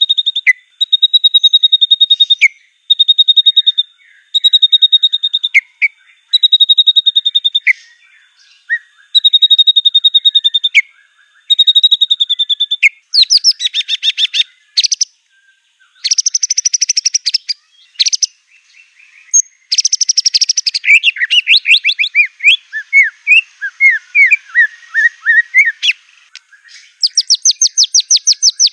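White-rumped shama (murai batu) singing. A high, steady whistled note about a second long repeats around seven times, then gives way to fast rattling trills and a run of quick varied chirps borrowed from other songbirds.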